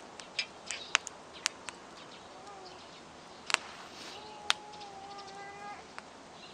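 Wood campfire crackling, with sharp, irregular pops and snaps. A faint held tone sounds in the background for about a second and a half, a little past halfway.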